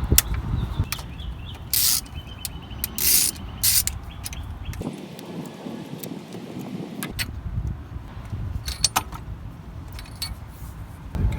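Clicks, light rattles and short scraping rustles of spark plug wires and a bracket being worked loose around a Honda CR-V's distributor, with a few louder bursts of scraping about two and three seconds in.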